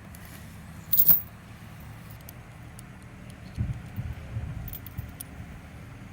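A car engine idling steadily as a low hum, with one sharp metallic clank about a second in and a run of low thumps and rumbles from about three and a half seconds.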